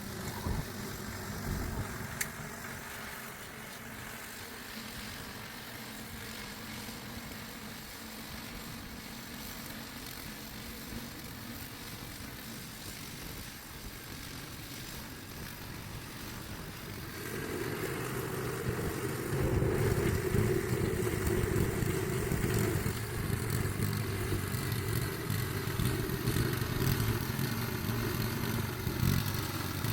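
An engine running steadily, growing louder about seventeen seconds in and staying louder.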